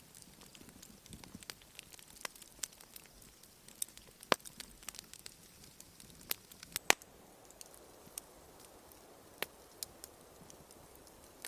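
Wood fire crackling, with sharp irregular pops; two louder pops come about four and seven seconds in.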